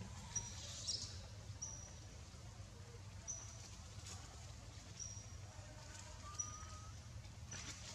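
A bird repeating a short, high, thin note about once a second, with one louder, fuller chirp about a second in, over a steady low background hum.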